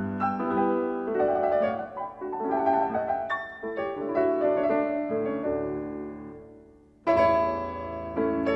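Background piano music: a slow melodic phrase that fades away about seven seconds in, then a new phrase starts suddenly.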